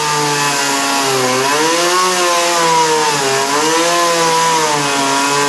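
Chainsaw engine running hard, its pitch dipping and recovering twice.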